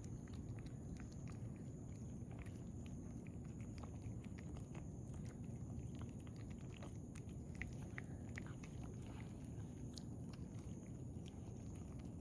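Cats eating wet cat food: faint, irregular chewing and biting clicks over a steady low background noise.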